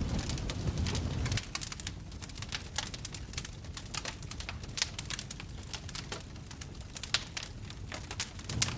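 Wood fire in a fireplace crackling, with irregular sharp pops and snaps throughout, a few of them louder. A low rumble under it drops away about a second and a half in and comes back near the end.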